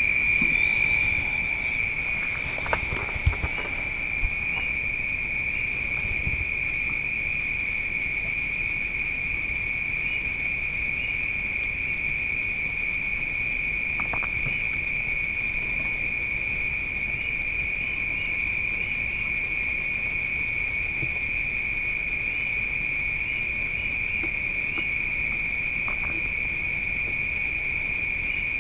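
Insects, most likely crickets, trilling steadily in two high pitches at night, with a few faint knocks about three seconds in.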